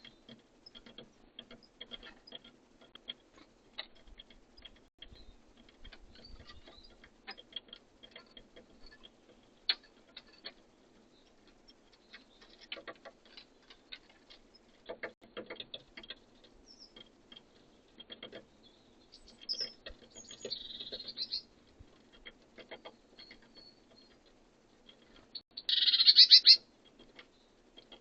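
Small birds feeding at a bird feeder: an irregular run of small clicks and taps from pecking at the food, with a few bird calls. The loudest is one call about a second long near the end.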